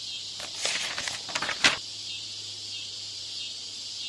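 Steady high-pitched hiss over a low electrical hum, with a few short crackles in the first two seconds. This is background noise deliberately added to a listening-test recording to imitate a faulty broadcast system in the exam hall.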